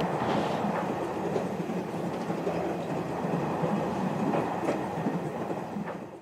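Train running on the rails: a steady rumble with a few faint clicks from the wheels, fading out near the end.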